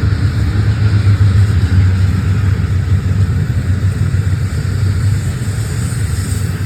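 Long train running past with a steady, loud low rumble.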